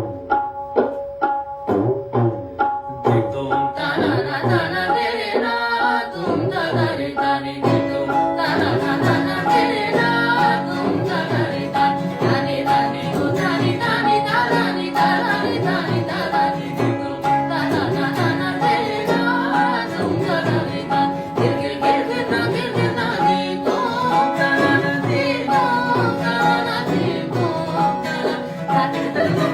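Vocal practice to an accompaniment: a steady beat plays alone at first. About four seconds in, a sustained drone and a singing voice join it and carry on over the beat.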